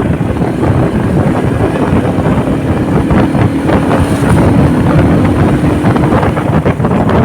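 Wind buffeting the microphone on a moving motorcycle, a dense steady rumble with a faint engine hum underneath.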